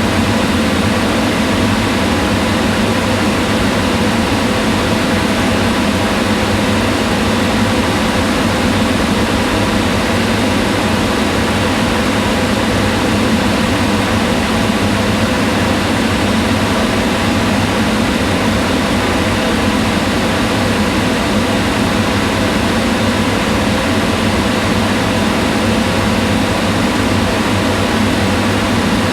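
Kitchen range hood fan running steadily: an even whooshing rush of air with a faint hum under it.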